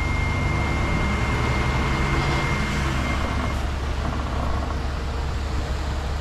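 Heavy earthmoving machine's diesel engine running steadily with a deep rumble. A thin steady high whine stops about halfway through.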